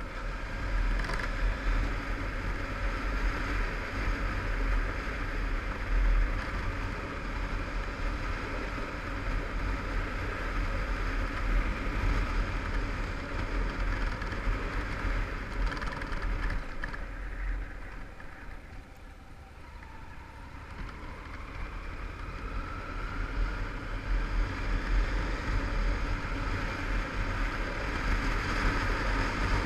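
2001 Yamaha TDM850's 850cc parallel-twin engine running under way, with wind rushing over the microphone. Around two-thirds of the way in it goes quieter as the throttle is eased off, then the engine note climbs as the bike accelerates again.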